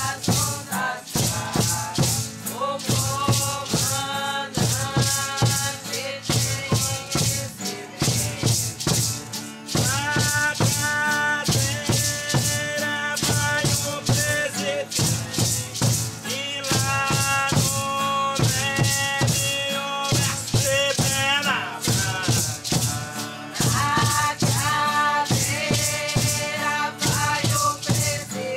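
Ceremonial chant: voices singing a melody over hand-shaken rattles keeping a steady beat.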